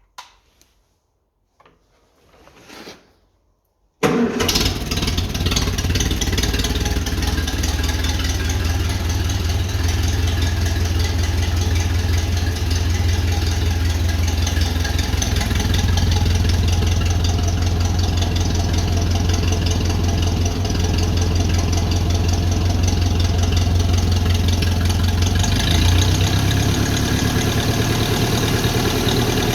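Freshly overhauled four-cylinder TVO engine of a 1955 Ferguson TED20 tractor starting up: after a few quiet seconds it fires suddenly about four seconds in and then runs steadily, with a slight change in its note near the end.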